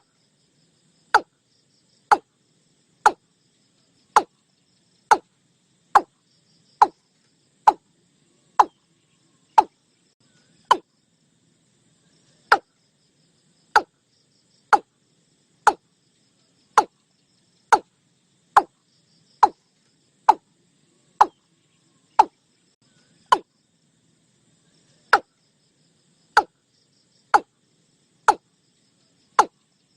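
Watercock (cúm núm) calling: a short, deep note sliding downward, repeated about once a second with a few longer gaps. Faint insects trill behind it.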